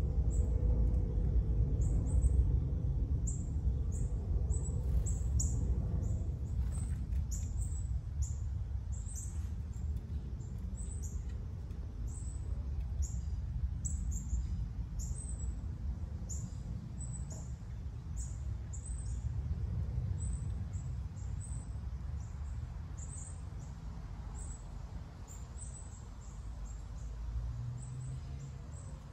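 Small birds giving short, high chirps over and over, some in quick runs, against a steady low rumble.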